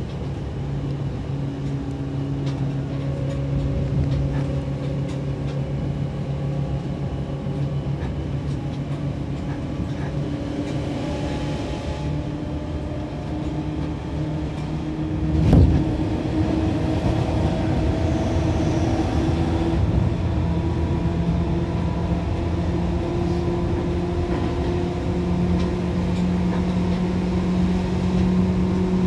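Seibu 2000 series electric train heard from on board, its traction motors and gears humming at a steady pitch over wheel and rail rumble. There is one sharp knock about halfway through, after which the motor hum slowly rises in pitch as the train gathers speed.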